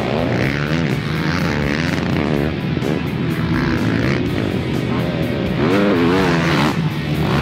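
Racing quad (ATV) engines revving up and down through the throttle over and over, over background music.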